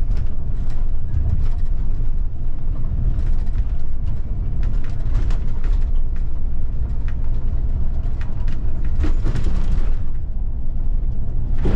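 Bus on the move heard from the driver's cab: a steady low engine and road rumble with small rattles and clicks, and a short burst of hiss about nine seconds in and again at the very end.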